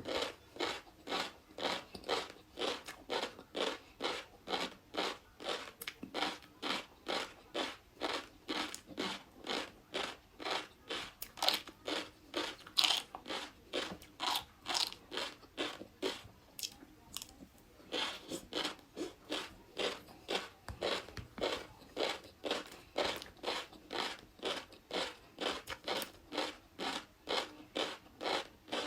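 Close-miked chewing of flying fish roe: steady crunchy chews, about two a second, with a brief pause about two-thirds of the way through.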